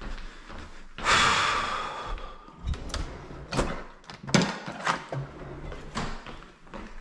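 Hard objects being handled: a loud clatter about a second in that rings on for over a second, then a string of about six sharp knocks and clicks.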